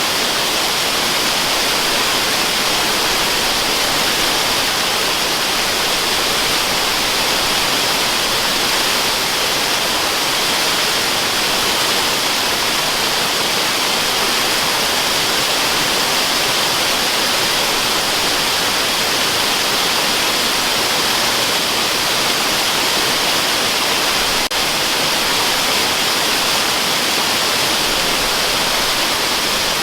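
Waterfall: a steady, even rush of falling water, bright and hissy, with no changes or pauses.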